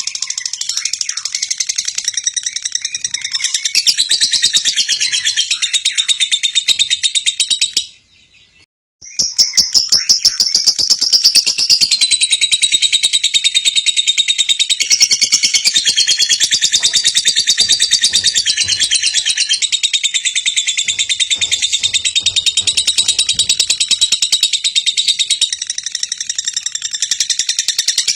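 Lovebird in full nonstop song: a fast, high, chattering stream of chirps. About eight seconds in it cuts out for roughly a second, then resumes just as densely.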